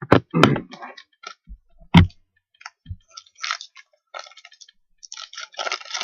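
Trading card packs being handled on a table: a few sharp knocks, then crackling, crinkling rustle of a pack wrapper being opened, denser near the end.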